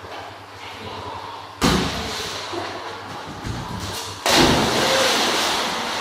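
A sudden thump about a second and a half in, then a louder, longer burst of noise about four seconds in that fades away: a chocolate Labrador dock-jumping, landing in the water with a splash.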